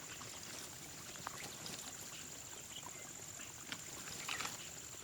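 Outdoor ambience: a soft trickle of running water under a steady high-pitched drone, with a few faint small clicks.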